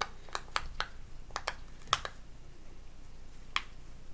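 Silicone push-pop fidget toy (poppet) having its bubbles pressed: a quick, uneven run of sharp pops in the first two seconds, then a single pop a little after three and a half seconds.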